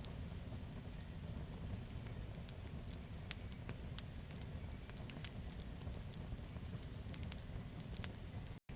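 Campfire burning, with scattered sharp crackles and pops over a steady low rumble. The sound cuts out for an instant near the end.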